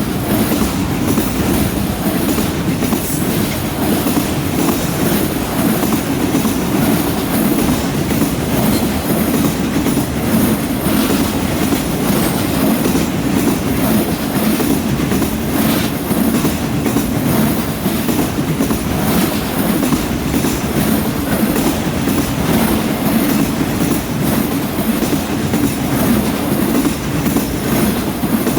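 Freight train rolling steadily past: a continuous rumble of steel wheels on the rails with scattered clicks as the cars cross rail joints.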